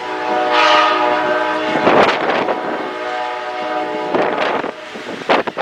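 Diesel locomotive's multi-chime air horn sounding two blasts: a long one, then a shorter one about a second later.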